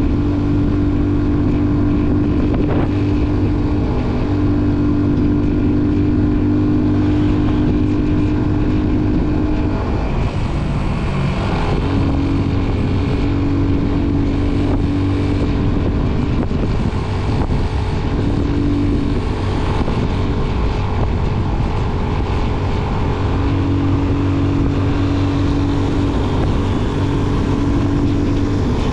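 Motorcycle engine running steadily while riding, its note shifting about ten seconds in, with wind noise on the microphone.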